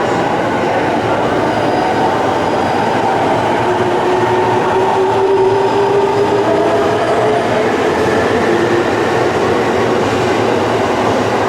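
Electric train moving along the platform, a steady loud rumble of wheels on rail with whining tones that slowly slide up and down in pitch.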